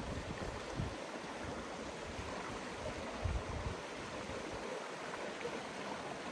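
River water flowing, a steady rushing hiss, with a few low gusts of wind buffeting the microphone, the strongest about three seconds in.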